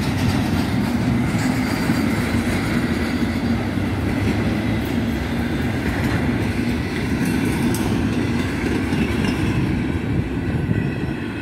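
Intermodal freight cars rolling past steadily: a continuous rumble of steel wheels on the rails with clicking over the rail joints.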